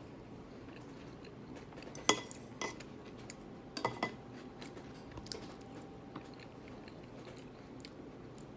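Cutlery clinking against a dish during eating, a few sharp clicks spread out, the loudest about two seconds in.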